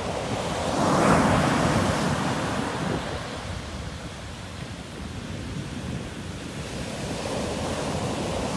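Sea waves breaking on the shore: a wave crashes about a second in and washes out over the next few seconds, then the surf builds again near the end.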